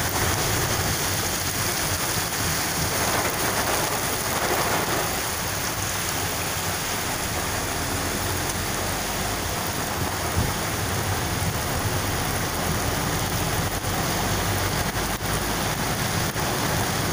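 Heavy rain pouring steadily on the road, a continuous even hiss.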